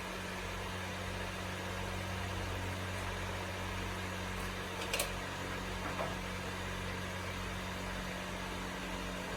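A steady low mechanical hum, with one sharp click about halfway through.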